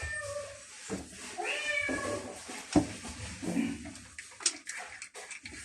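Hungry stray cats meowing, two drawn-out meows, with scattered sharp clicks and knocks between them, the loudest knock about halfway through.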